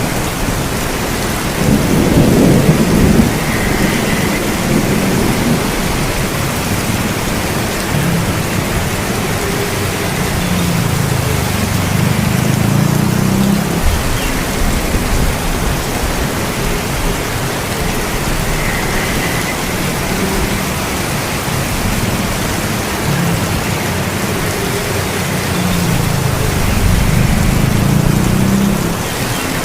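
Steady heavy rain with low rolls of thunder: the loudest about two seconds in, another around twelve seconds, and one near the end.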